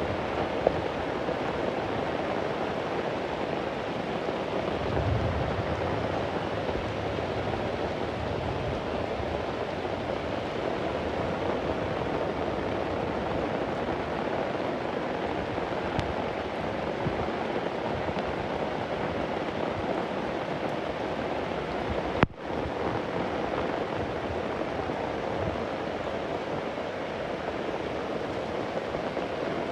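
Steady heavy rain, with a low rumble of distant thunder from about five seconds in. About three-quarters of the way through there is a sharp click with a split-second drop-out in the rain.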